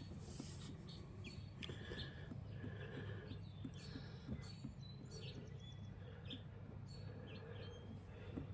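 Small birds chirping now and then in short calls over a steady low background hum.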